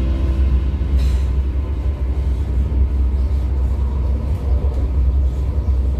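A loud, steady low rumble with a rushing noise over it, as the music fades out at the start.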